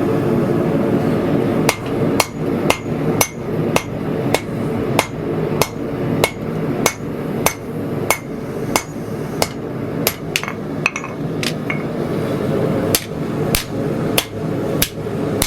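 Hand hammer striking hot 80CrV2 steel bar stock on an anvil, forging the spine side while drawing out a tang. The blows fall at a steady rhythm of a little under two a second, pause briefly near the end, then resume, over a steady roar in the background.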